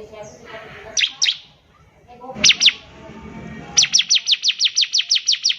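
Bar-winged prinia (ciblek) singing: a pair of sharp, high downslurred notes about a second in and another pair at about two and a half seconds, then a fast, even trill of the same downslurred notes, about six a second, from about four seconds in. Softer, lower chatter fills the gaps between.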